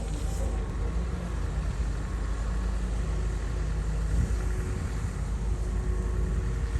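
Komatsu bulldozer's diesel engine running steadily, a low rumble that holds even throughout.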